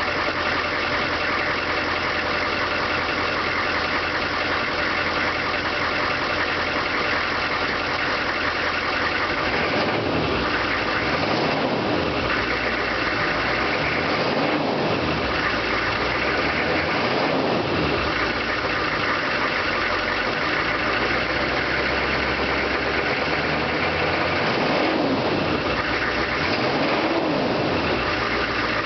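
GMC 2500's 6.5 L Detroit turbo-diesel V8 through its stock exhaust, idling steadily with a diesel clatter. About nine seconds in it is revved several times, each rev rising and falling back to idle.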